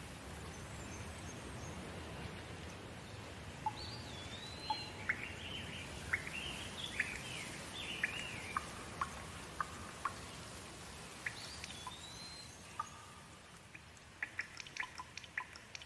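Steady rain hiss with a bird calling over it: a string of chirps and whistled rising-and-falling notes from a few seconds in. Near the end the hiss eases and separate drops tick and drip.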